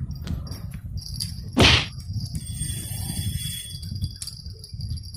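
Outdoor ambience by the river: a steady high insect-like buzz over a low rumble, with one short loud thump about one and a half seconds in.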